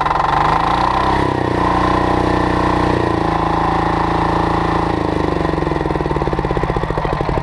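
Loncin diesel engine on a pressure washer revving up over about a second and a half, holding at high revs for a few seconds, then dropping back to a slow, pulsing idle near the end.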